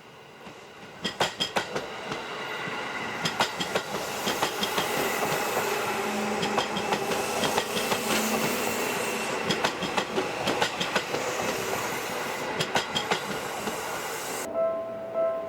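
Seibu Railway electric train passing close by: steady rushing with repeated clusters of wheel clicks as the bogies cross rail joints. Near the end the sound cuts suddenly to a repeating ringing tone.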